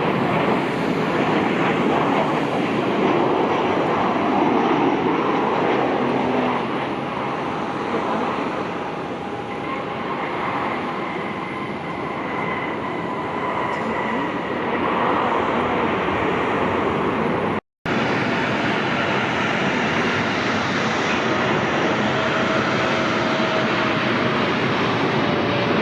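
Jet airliner engines running with a steady roar and a faint thin whine, cut off by a brief gap near the end before the roar resumes.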